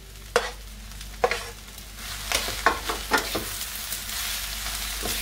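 Kottu roti, vegetables and fried chicken frying over low heat in a metal pan, stirred and tossed with a spatula. The spatula knocks against the pan a few times, then in a quick cluster, while the sizzling grows louder from about two seconds in.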